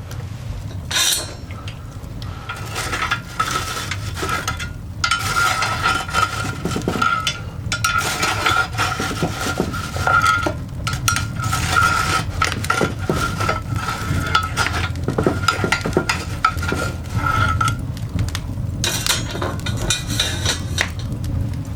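Coal fire burning in a cast-iron dog grate: dense crackles and pops over a low rumble, with a thin steady whistle that starts about two seconds in and stops a few seconds before the end.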